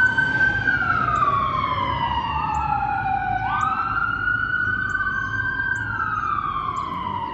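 Fire truck sirens wailing. The pitch shoots up, holds briefly, then slides slowly down, and a second siren overlaps, starting its own rise about two and three seconds in.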